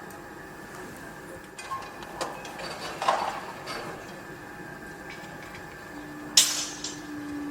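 Construction site noise: scattered metallic clanks and knocks over a steady background hum, with one loud, sharp clank about six seconds in. A low steady tone joins near the end.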